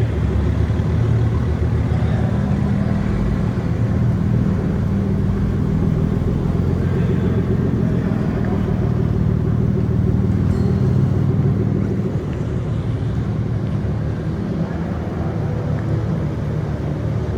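Car engine running steadily with a low hum, dropping a little in level about twelve seconds in.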